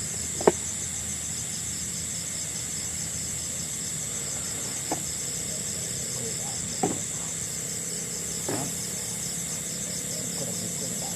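Night insect chorus of crickets, a steady high pulsing trill, with a few short pops or snaps spread through it.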